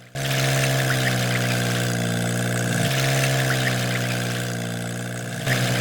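Mini tractor engine running at a steady, even pitch. It cuts in abruptly just after the start and shifts pitch slightly about three seconds in and again near the end.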